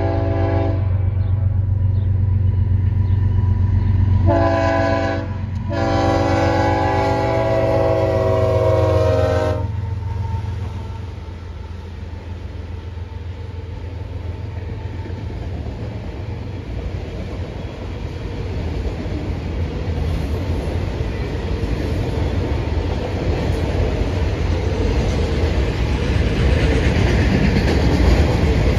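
Freight train passing: the diesel locomotives' multi-tone air horn sounds three times (a blast ending about a second in, a short one about four seconds in and a longer one ending near ten seconds) over the low drone of the engines. The engine drone fades and the rolling auto rack cars rumble and clatter past, growing louder toward the end.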